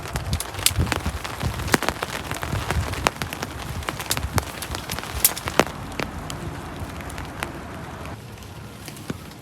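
Rain falling, with frequent irregular sharp taps of drops striking a surface. The higher hiss thins about eight seconds in.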